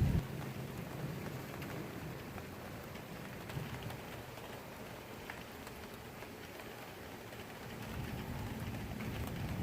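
Steady rain falling during a thunderstorm. A loud low rumble of thunder cuts off just as it begins, and another low thunder rumble builds near the end.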